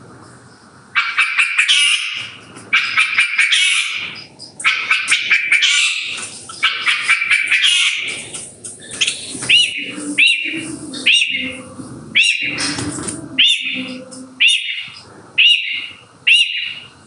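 Shrike singing a varied mimicking song: a long stretch of fast, dense chattering, then a series of separate, repeated calls that each rise and fall, about one a second, stopping just before the end.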